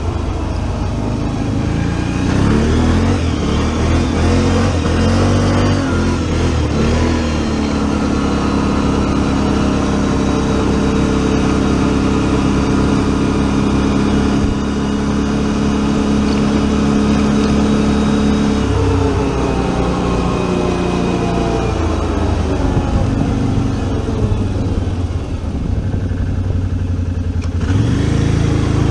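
Four-wheeler (ATV) engine speeding up and then holding a steady pitch under way, dropping about two-thirds of the way in and winding down further before it picks up again near the end. Wind buffets the microphone throughout.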